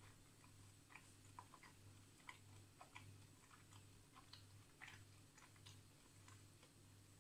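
Faint, quiet chewing of a McDonald's Big Mac, with soft, irregular wet mouth clicks. Under it a faint low pulse repeats evenly about twice a second.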